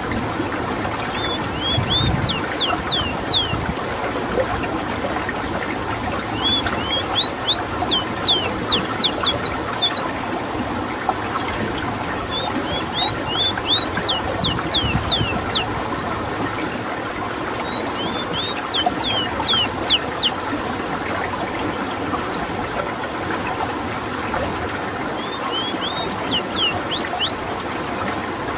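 Ruddy-breasted seedeater (Sporophila minuta) singing. It gives five phrases, about one every six seconds; each is a few short notes followed by a quick run of high, steeply falling whistled sweeps. A steady rushing background sits beneath the song.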